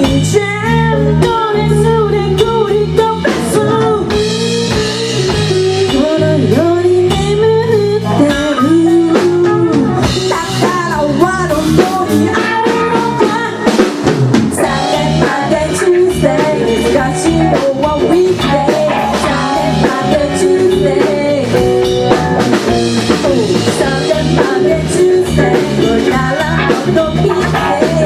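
A rock band playing live: drum kit, electric guitar and bass, with a sung or lead melody line over them.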